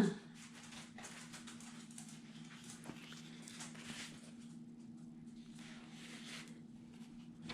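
Faint rustling and light handling of paper scrapbook pieces over a steady low hum.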